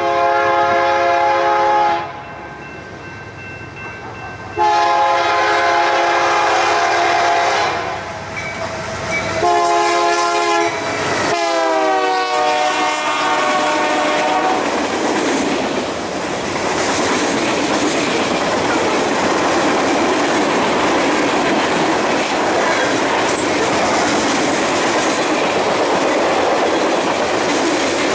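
Diesel locomotive's multi-chime air horn sounding the long, long, short, long grade-crossing signal, its pitch dropping during the last blast as the locomotive passes. Then the train's wheels roll by over the rail joints with a steady clickety-clack.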